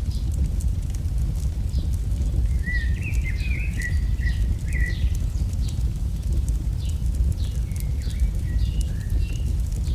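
AI-generated campfire-in-the-forest ambience: a steady low rumble with light crackling, under repeated short high chirps. A bird sings short warbling phrases about three seconds in and again near the end.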